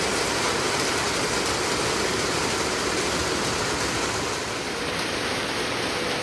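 Steady rain falling, an even rushing noise without breaks.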